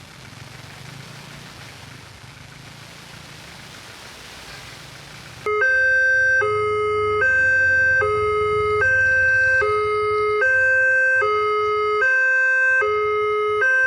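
Railway level-crossing warning alarm switching on suddenly about five and a half seconds in: an electronic two-tone signal, alternating evenly between a higher and a lower tone a little under a second each, warning that a train is approaching. Before it, a steady rushing road-traffic noise.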